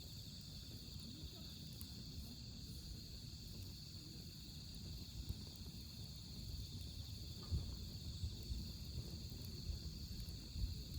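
Wood fire burning quietly with a soft, steady low crackle, growing a little louder with a few sharper pops in the second half. Crickets or other autumn insects trill steadily throughout.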